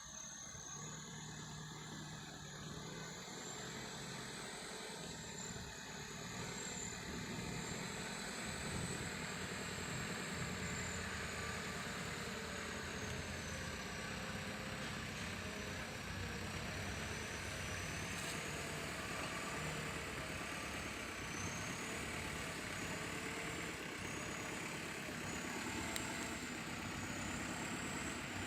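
Heavy diesel machinery engines running steadily, growing louder over the first several seconds and then holding, with a thin high wavering whine above.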